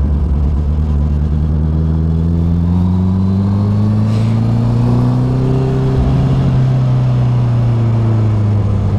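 Honda CB650R's inline-four engine pulling in gear as the motorcycle gathers speed. Its note rises steadily for a few seconds, then holds and eases down slightly near the end.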